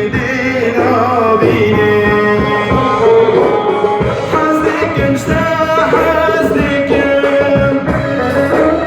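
A Middle Eastern-style song: a voice singing with vibrato over instruments and a drum beat.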